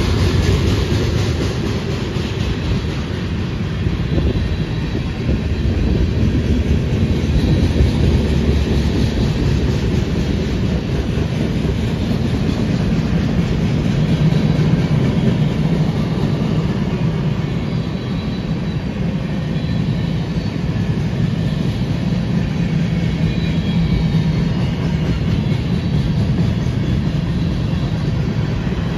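Freight cars of a manifest train rolling past at close range: the steady, unbroken sound of steel wheels running on the rails.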